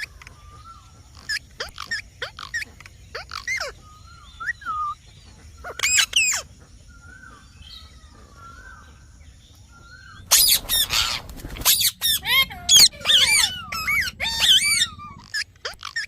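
Small parrot calling: a string of short sharp chirps, then about ten seconds in a harsh squawk followed by a rapid run of warbled, rising-and-falling calls.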